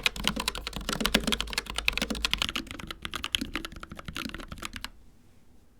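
Fast typing on an Asus ROG Strix Scope RX keyboard with ROG RX Red linear optical switches: rapid, overlapping keystroke clacks that thin out and stop about five seconds in.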